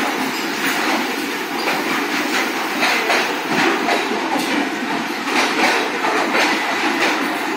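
Pakistan Railways passenger coaches of an arriving express rolling slowly past along a platform, their wheels knocking over the rail joints in an irregular clatter.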